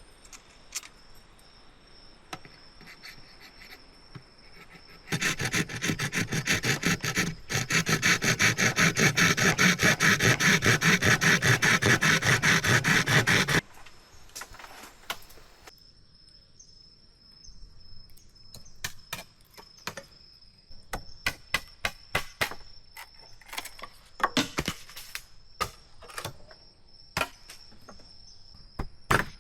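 Bamboo being cut with rapid, even back-and-forth strokes for several seconds, with scattered knocks and taps of bamboo before and after. An insect trills steadily with a high, thin tone throughout.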